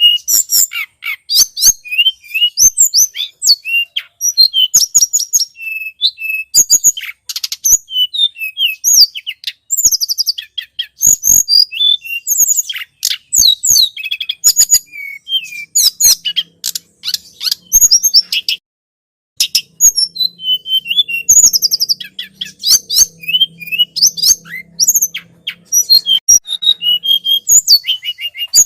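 Tledekan gunung songbird singing: a fast, unbroken run of high chirps and twittering notes, with a short pause about two-thirds of the way through. It is a lure recording meant to call wild birds of the same kind.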